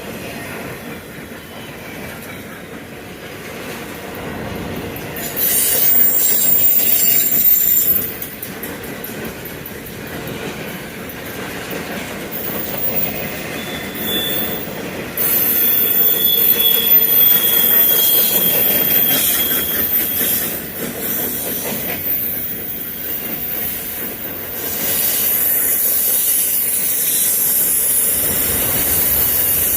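A freight train rolling past with steady wheel-on-rail noise, its wheels squealing in high-pitched bursts: loud squeals about five seconds in and again midway, with a shrill tone that holds for several seconds.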